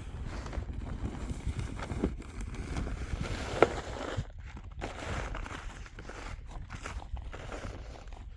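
Wind rumbling on the microphone, with scattered small knocks and one sharp click about three and a half seconds in.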